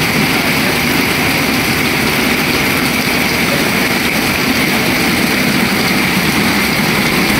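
Heavy rain pouring onto floodwater, a loud steady hiss of splashing drops.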